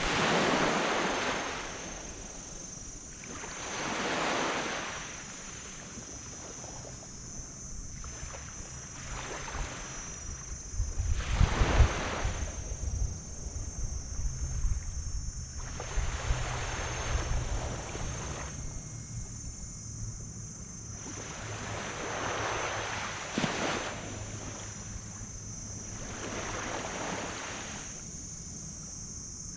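Small tropical waves breaking and washing up a black sand beach, one swell of surf every four to six seconds, the biggest about twelve seconds in. A low steady hum sits underneath through the middle.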